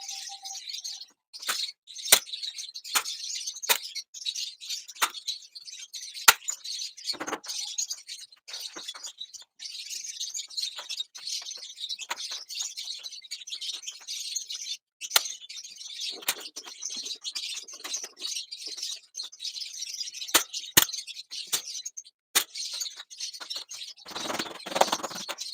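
A group of small caged birds chirping and chattering continuously, with many sharp clicks throughout and a brief rustling burst near the end.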